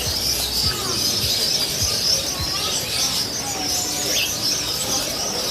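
Many small caged birds chirping and chattering at once, a dense high twittering chorus with a few louder single calls over it.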